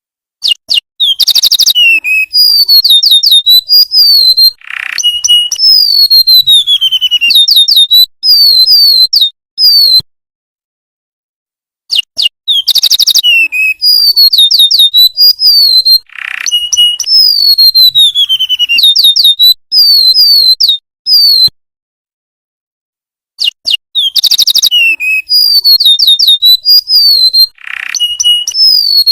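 Golden-bellied gerygone (remetuk laut) singing: a phrase of rapid, high, thin whistled notes that slide downward, played three times about every eleven and a half seconds with dead silence between, as a looped recording.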